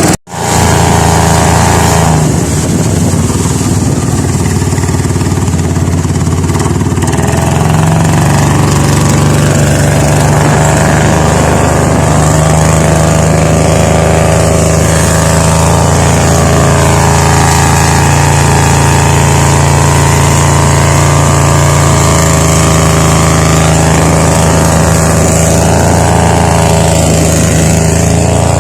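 Honda GX390 single-cylinder four-stroke engine on a cut-stern longtail boat, running loud and steady at an even speed with only slight rises and falls in pitch. There is a brief cut-out just after the start.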